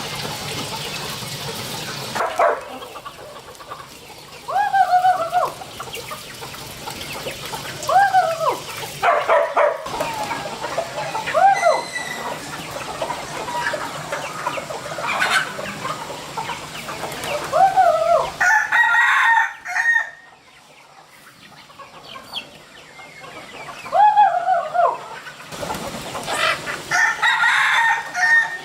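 Chickens calling on a farm, about five short calls that rise and fall in pitch, with clucking in between.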